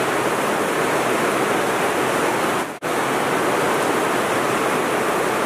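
Heavy rain falling, a steady dense hiss that breaks off for an instant about halfway through.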